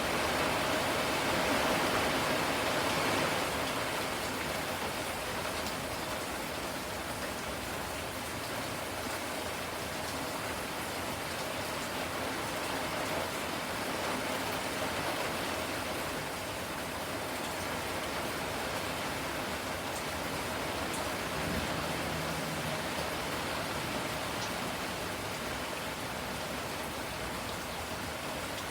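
Steady rain falling, a steady hiss of drops on surfaces, a little heavier for the first few seconds.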